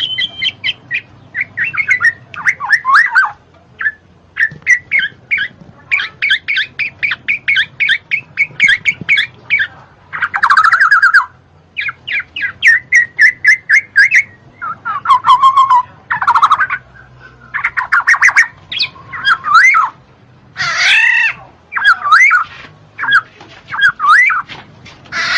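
Black-naped oriole (kepodang) calling: runs of rapid, evenly repeated chattering notes alternating with harsh squawks and short slurred whistles, with brief pauses between bursts.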